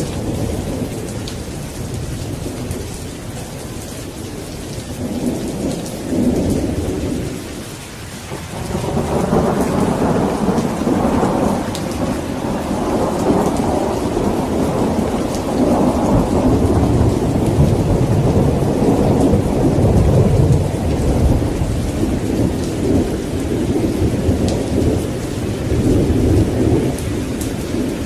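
Steady heavy rain with rolling thunder. A rumble swells and fades about five to seven seconds in, then a long rolling peal of thunder starts about nine seconds in and carries on under the rain for most of the rest.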